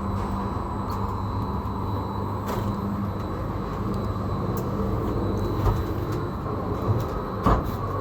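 Cable car station machinery running with a steady low hum, and a few sharp clunks in the second half, the loudest near the end.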